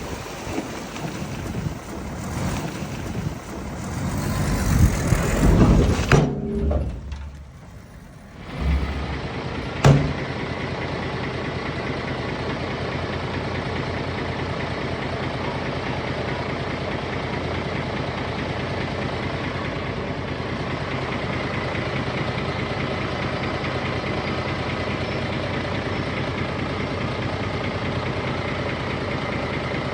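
Heavy diesel engine of earthmoving machinery running loud and uneven for about six seconds, then dropping away. After a sharp knock about ten seconds in, it settles into a steady idle.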